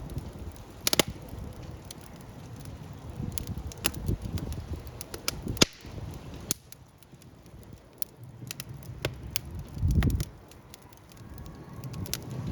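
Wood fire crackling, with irregular sharp pops and ticks, the loudest pop about halfway through, over a low rumble that swells near the end.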